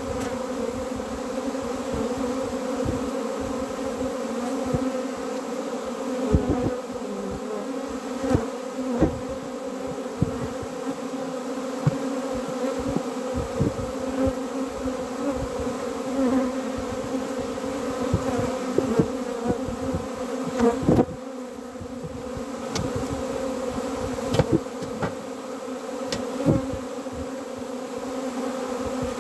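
A hive of honeybees buzzing in a steady, dense hum, with scattered light knocks now and then.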